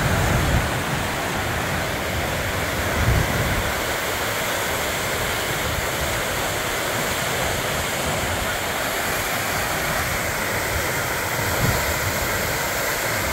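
Floodwater roaring over a lake spillway: a steady, loud rush of high water.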